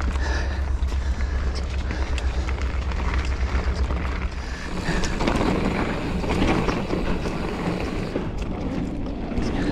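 Giant Fathom mountain bike riding over a dirt trail: tyre rumble on the ground, small rattles and knocks from the bike over rough spots, and wind on the action camera's microphone. A heavy low rumble eases about halfway through.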